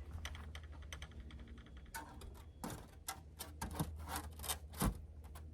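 Rigid foam insulation board being handled and fitted: irregular rubbing, scraping and clicking, with a heavier knock about five seconds in, over a steady low hum.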